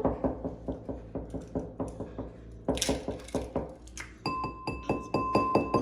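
A fork beaten quickly against a bowl, clinking about six times a second. From about four seconds in, the bowl rings with a clear, held tone under the strikes.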